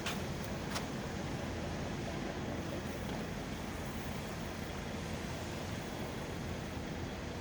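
Scania R tractor unit's diesel engine idling steadily, with two short clicks in the first second.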